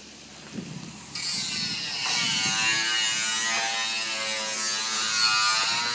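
A steady mechanical buzz or whir with a slightly wavering pitch, starting about a second in.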